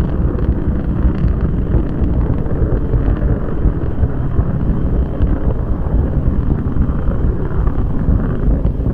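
A steady, loud, low rumbling roar that holds level throughout, with no distinct strokes or tones.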